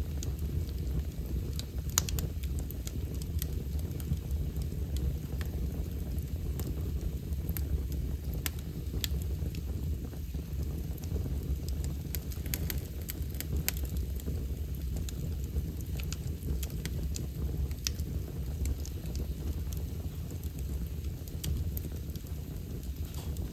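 Fire burning in a fireplace, crackling: scattered sharp pops and snaps over a steady low rumble.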